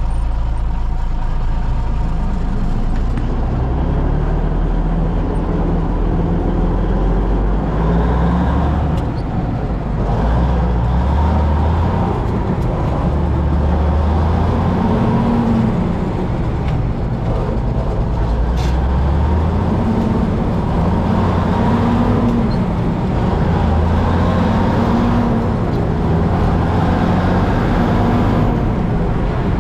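Diesel engine of an LT Mack truck pulling away, heard inside the cab, revving up and dropping back again and again as it is shifted up through the gears of its twin-stick five-and-four transmission.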